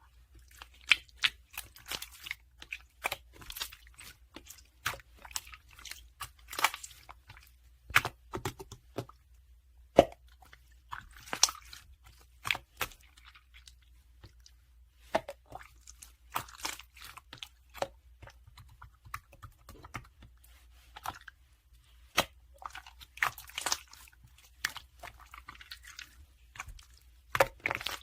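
Close, irregular crunches and sharp crackling clicks in clusters, separated by short pauses.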